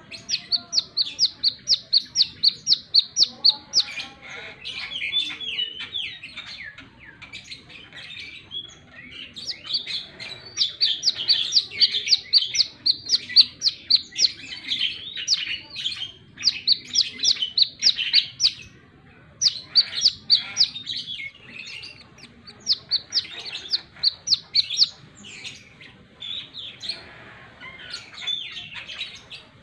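Brown-throated sunbird (kolibri kelapa) singing actively: bouts of rapid, evenly repeated high notes, about five or six a second, alternating with more varied twittering, with short pauses between bouts.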